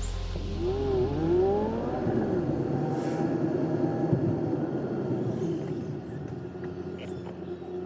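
Road traffic: a motor vehicle passes, its engine pitch rising and falling about a second in, then the sound fades away after about six seconds.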